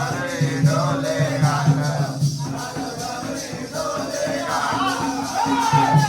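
Jakhadi folk song: a singing voice carries a wavering melody over a low pulsing accompaniment and a steady jingling, shaker-like rhythm.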